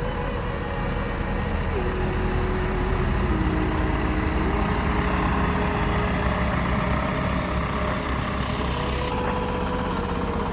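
Diesel engine of a heavy construction machine running steadily, with a thin whine that drops and rises in pitch a few times.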